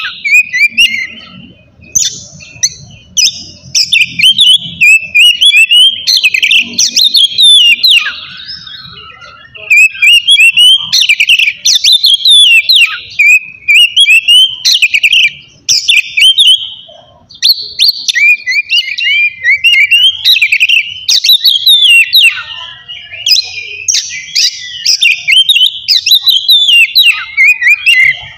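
Oriental magpie-robin singing loudly in long, varied phrases of rapid whistles and chattering notes, with brief pauses about 9 and 17 seconds in.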